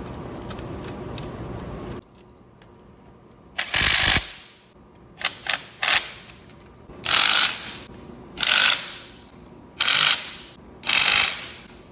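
A ratchet clicking in short, loud strokes, about one every second and a half, with a few sharp clicks between them: a hand-worked ratcheting tool being pumped while a car wheel is mounted. Steady background noise in the first two seconds cuts off abruptly before the strokes begin.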